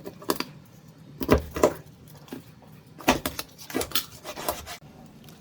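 A kitchen knife knocking on a cutting board while chicken is cut: several irregular knocks in small clusters, the loudest a little over a second in and again around three to four and a half seconds in.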